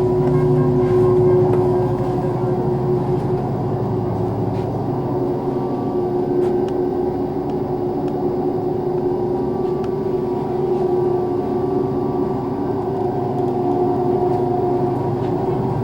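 A yacht's engine drone running steadily, a constant low hum with a steady tone on top.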